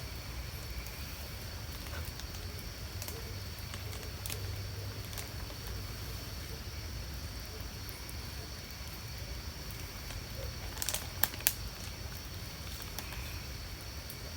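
Woodland ambience with a steady high-pitched insect drone over a low rumble, and a few sharp clicks about eleven seconds in.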